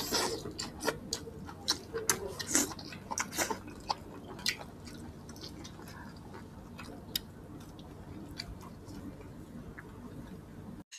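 Close-miked eating sounds: wet chewing of boiled pork and rice, with lip smacks and small clicks, busiest in the first four seconds or so and sparser after.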